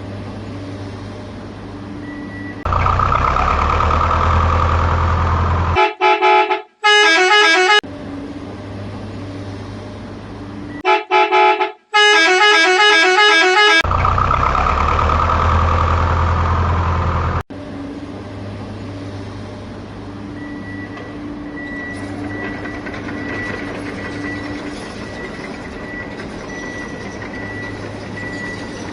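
Vehicle horn honking in long blasts, twice broken by a quick patterned tooting, over a steady motor hum. For the last part only the steady hum goes on, with a faint high whine.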